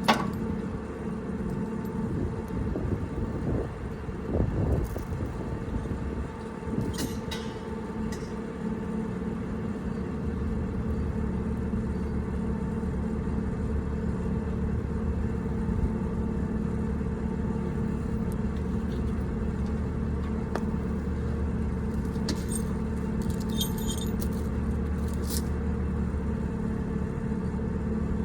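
An engine idling steadily, with a few light metallic clinks about a quarter of the way in and again near the end.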